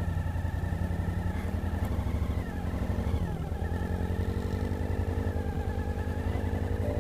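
Motorcycle engine running under way, a steady note whose pitch dips briefly about two and a half seconds in and then settles again.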